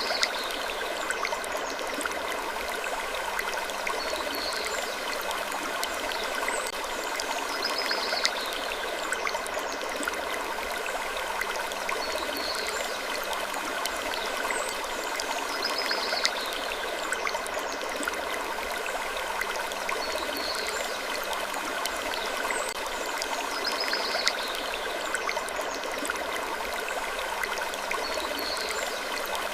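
Looped ambient soundscape of wood creaking: a steady rushing hiss with faint, short creaks recurring about every four seconds.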